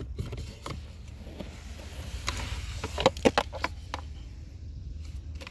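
Scattered plastic knocks and clicks as a car's HVAC blower fan assembly drops out from under the dashboard and is handled. The knocks are loudest a little past the middle, over a steady low hum.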